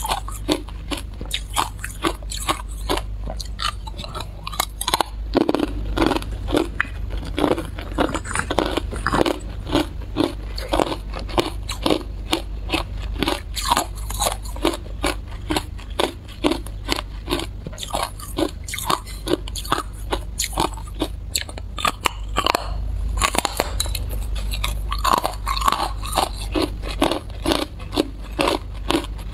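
Hard clear ice being bitten and chewed: a rapid series of sharp crunches, about two or three a second, with no pause.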